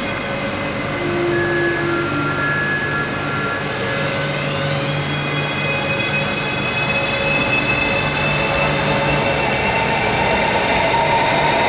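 Renfe Civia electric commuter train pulling into an underground station platform. Its traction motors whine in several steady tones over the rumble of the wheels, with a rising whine about four seconds in. It grows louder as the train draws alongside.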